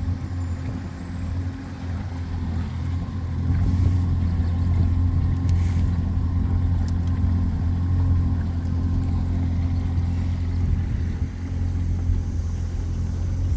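Motorboat engine running steadily under way, a low drone that grows a little louder about three and a half seconds in.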